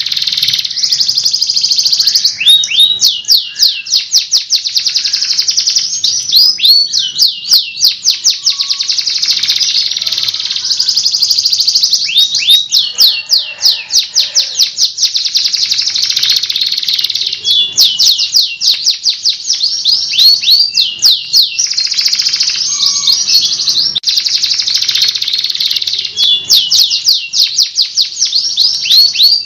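Domestic canary singing a long, continuous song of fast rolling trills and rapid strings of repeated down-sweeping notes, with a short break every few seconds.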